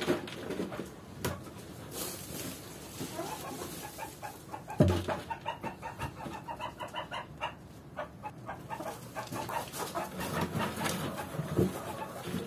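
Chickens clucking, with a few sharp knocks, the loudest at the start and about five seconds in.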